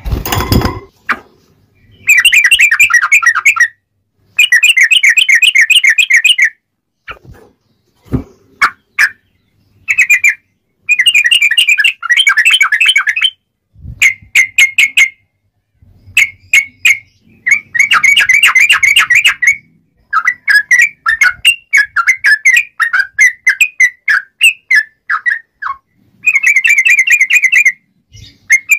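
Sooty-headed bulbul (trucuk) singing its loud, clear song in repeated bursts of rapid bubbly warbling, each a second or two long with short pauses between. A knock right at the start and a few sharp clicks in between.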